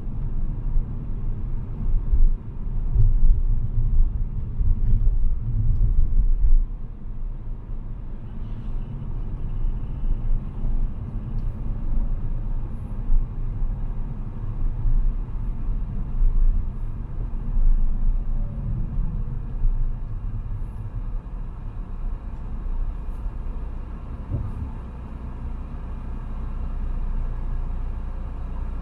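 Car driving: a low engine and road rumble, heavier and more uneven for the first six or so seconds, then settling into a steadier, quieter drone.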